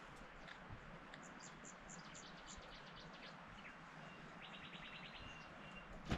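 Wild birds singing faintly over a steady outdoor hiss: a run of about six short high chirps, then a quick trill a few seconds later. A single sharp knock comes right at the end.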